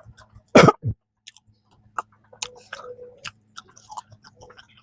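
Close-miked mouth sounds of someone chewing soft peanut cream bread: a louder bite or smack about half a second in, then a run of small wet clicks and smacks.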